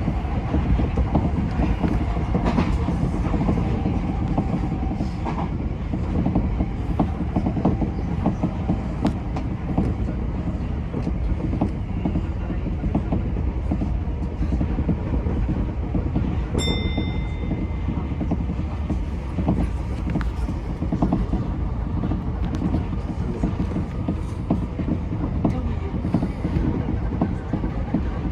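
Tokyo Metro 10000 series electric train running at speed, heard from inside the front car: a steady low rumble of wheels on rail with scattered clicks over rail joints. About two-thirds of the way through, a short high beep sounds for about a second.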